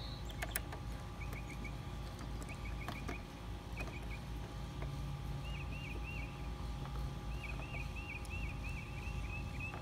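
A bird singing runs of short, quickly repeated chirps, the longest run over the last few seconds, above a low steady background rumble. A few faint clicks come from a quarter-inch ratchet turning the Torx fasteners of a minivan roof rail.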